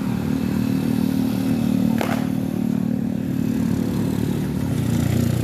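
A steady low motor hum runs throughout, with one sharp click about two seconds in.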